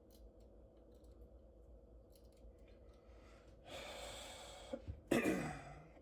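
A man breathes out hard, then gives a groaning sigh that falls in pitch, in the last second or so.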